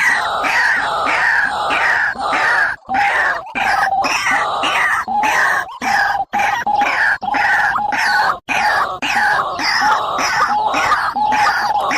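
Bird calls played for trapping: a loud, fast run of harsh, repeated calls, several a second, broken by a few very short gaps.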